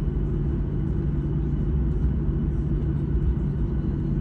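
Steady low rumble of an airliner's jet engines and airframe heard from inside the passenger cabin, with a constant low hum under it.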